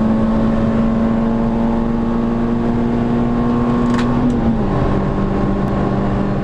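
Car engine heard from inside the cabin while driving on a race track, held at a steady pitch. About four seconds in there is a brief click or two, and the engine note then drops slightly and holds.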